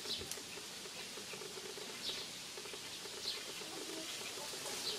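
A bird repeating a short, high, falling chirp about four times, over a low steady background hum.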